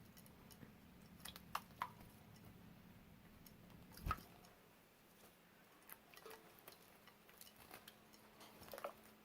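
Near silence with scattered faint clicks and small splashes from a budgie stepping and dipping in a shallow dish of water; the loudest come about a second and a half in and again about four seconds in. A faint low hum fades out about halfway through.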